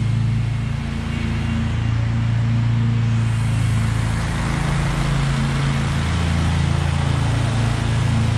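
Husqvarna V554 stand-on zero-turn mower running steadily at mowing speed, its engine drone under the rushing noise of the cutting deck, which grows stronger about three seconds in.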